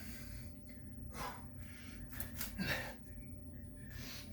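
A person breathing hard from exertion during six-count exercise reps, with several sharp breaths and gasps.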